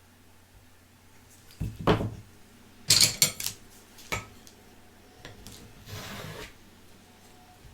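Small objects handled close to the microphone: a few knocks, then a quick rattle of clicks, a single click, and a short scraping rustle near the end.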